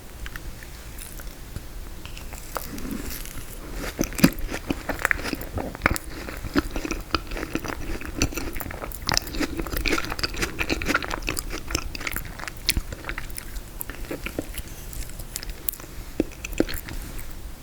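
Close-miked biting and crunchy chewing of frozen tiramisu, with dense sharp crackles from the icy dessert, starting a few seconds in.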